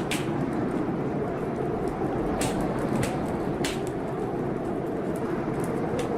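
Wood fire crackling in a fireplace, with a few sharp, irregular pops, over a steady rushing storm of rain.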